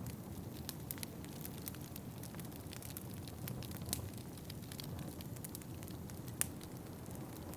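Fireplace fire crackling, with frequent sharp pops over a steady low rumble. Two pops stand out, about four and six and a half seconds in.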